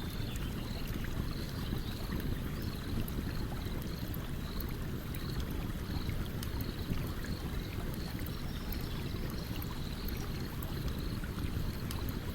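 A stream running with a steady low rush, while a campfire crackles with scattered small pops. A faint high chirping repeats about twice a second throughout.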